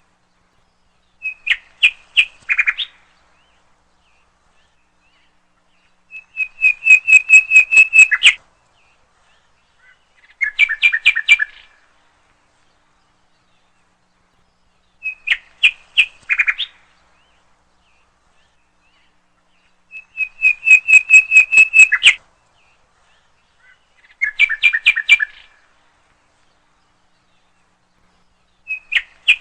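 A songbird singing in short phrases of rapid repeated notes, a phrase every four to five seconds. It cycles through a short phrase, a longer fast trill and a lower two-toned phrase, and the cycle runs about twice.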